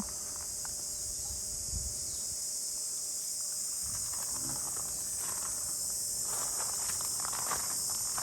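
Steady high-pitched chorus of insects such as crickets, running without a break, with a few light steps or rustles in the later seconds.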